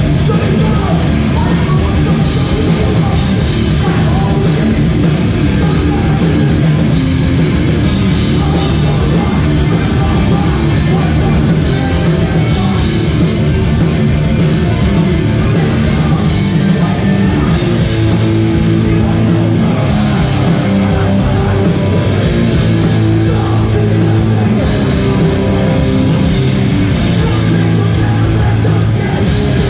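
Hardcore band playing live: heavily distorted guitars, bass and drums at full volume, with shouted vocals.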